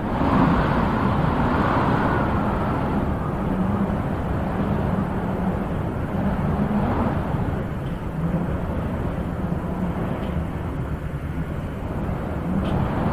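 Wind blowing in gusts, a steady rushing that swells about a second in, again around seven seconds, and once more near the end.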